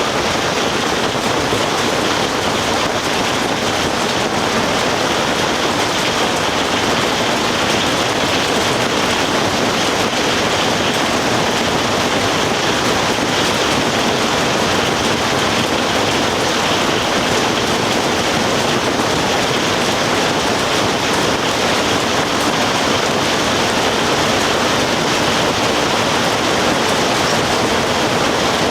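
Steady rain falling, an even, unbroken hiss with no separate drops, thunder or other events standing out.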